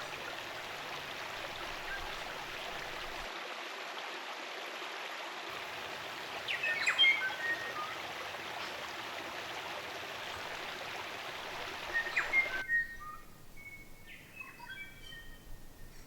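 Steady rush of stream water with New Zealand native forest birds calling over it; about seven seconds in and again near twelve seconds, birds give short bursts of loud calls. Near the end the water noise drops away abruptly, leaving a run of short chirping bird notes.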